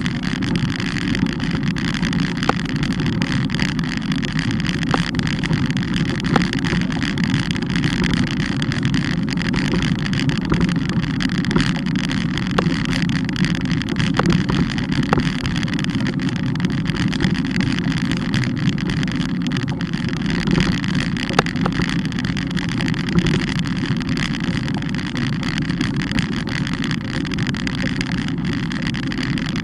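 Steady riding noise from a camera mounted on a moving bike: a continuous rumble with wind on the microphone and a few faint clicks.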